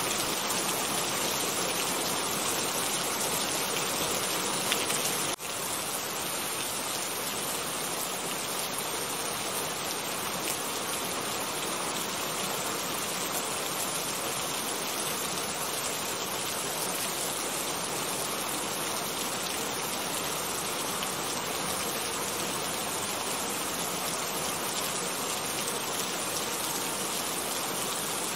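Steady rain, an even dense hiss with no thunder, with a brief dip in level about five seconds in.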